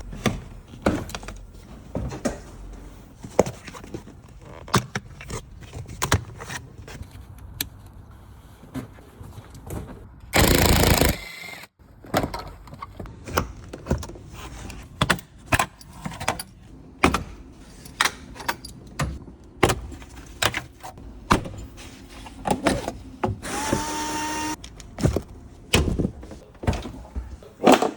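Tools and car parts clicking and knocking irregularly as an old Jaguar is being taken apart. There is a loud rushing burst about ten seconds in, and a steady whir lasting a second or two near the end.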